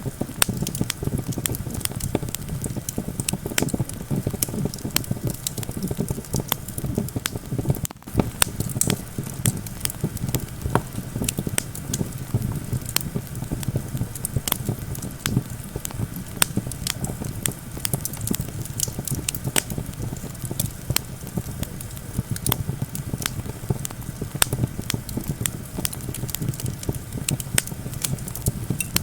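Campfire crackling with constant irregular pops and snaps over a steady low rumble of wind.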